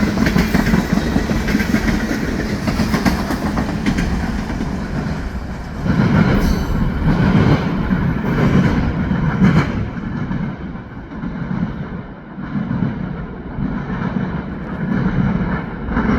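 Freight train of oil tank cars rolling past, steel wheels clattering over the rail joints. The sound is fullest for a few seconds around the middle, then thins and quietens about ten seconds in.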